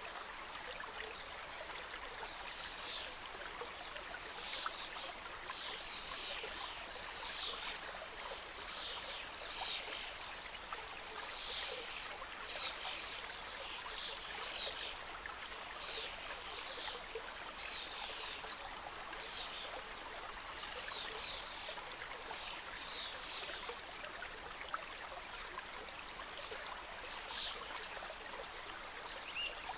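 Small mountain stream flowing over rocks: a steady rush of water with frequent bright splashes and trickles.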